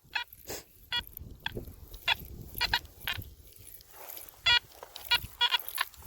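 Metal detector set to five tones giving short pitched beeps, about a dozen at irregular spacing, as the search coil is swept back and forth over a buried target.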